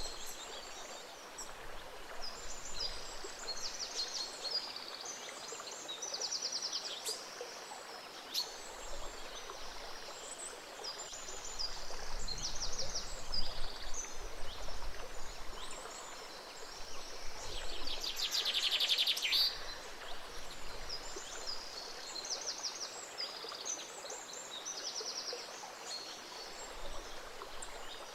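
Gentle stream flowing steadily, with songbirds chirping and trilling over it throughout; one bird gives a loud rapid trill about two-thirds of the way through.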